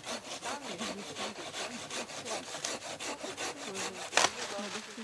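Silky Big Boy folding saw cutting firewood in rapid, even strokes, with a single sharp crack about four seconds in.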